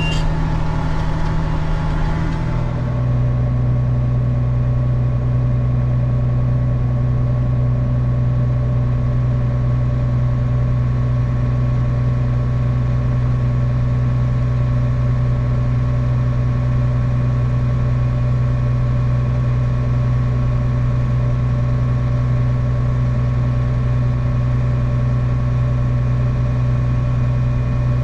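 Diesel engine of heavy harvest equipment running steadily under load. Its pitch drops slightly about two and a half seconds in, then holds an even drone.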